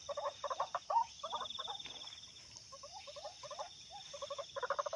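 White-breasted waterhen (ruak-ruak) calls: a run of short, repeated notes that thin out in the middle and come thick again near the end.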